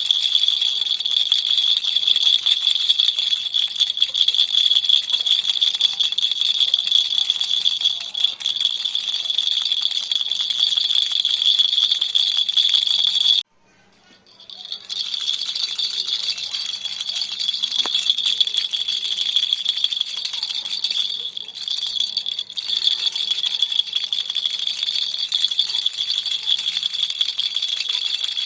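Baby toy rattle shaken continuously, a bright, dense rattling. It stops abruptly for about a second about halfway through, then starts up again.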